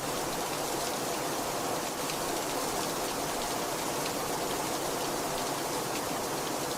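Heavy rain falling steadily, an even rushing hiss with faint patter of individual drops hitting a surface.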